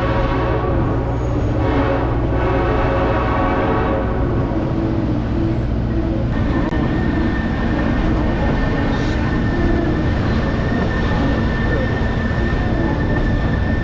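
Diesel locomotive horn sounding a chord for the first few seconds over the steady rumble of a moving passenger train heard from aboard. From about halfway, a single steady high-pitched whine runs over the rumble.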